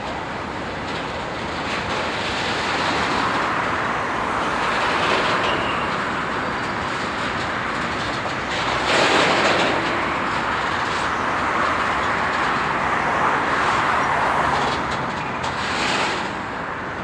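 Train rolling past on the tracks, a steady rumble and rattle that swells and eases, louder about nine seconds in and again near the end.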